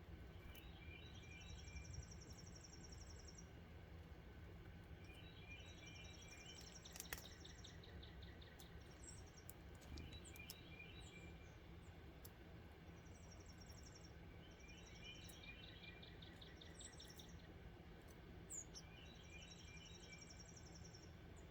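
Wild songbirds singing faintly: a high, buzzy trill lasting a second or two, repeated about every four seconds, with softer chirps lower in pitch alongside it.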